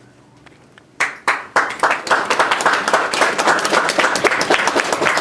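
An audience in a church breaking into applause. The first second is quiet, a few single claps come about a second in, and then many hands clap steadily.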